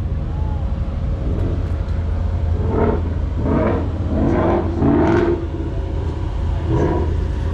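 Steady low rumble of a car engine running close by. Voices come in for a few seconds in the middle and again near the end.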